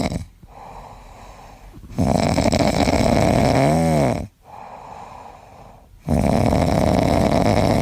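Loud, rasping snoring: long snore breaths about every four seconds, separated by quieter gaps. A brief squeaky whistle rises and falls inside the middle snore.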